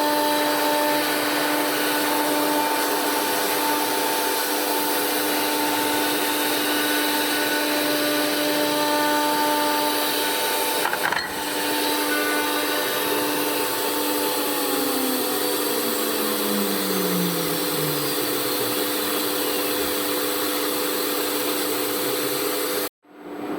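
Blue Elephant 1530 ATC CNC router machinery running with a steady hum of several tones. A sharp click comes a little before halfway, and a motor winds down with falling pitch about two thirds of the way through while the steady hum carries on, then the sound cuts off abruptly near the end.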